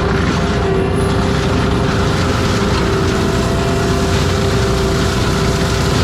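ASV RT-120F compact track loader running a forestry mulcher head, its engine and spinning mulcher drum holding a loud, steady whine over a low rumble.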